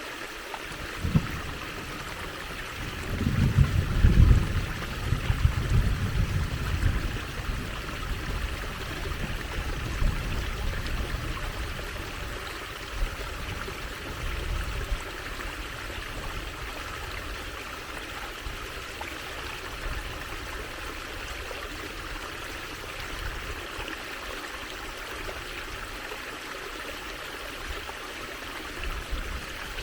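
Water trickling and flowing steadily. A low rumble, louder than the water, swells from about three to seven seconds in, with weaker swells later.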